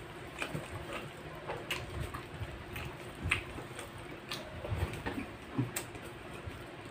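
Close-up eating sounds of two people eating rice and food with their hands: soft chewing, lip smacks and small scattered clicks, over a faint steady hum.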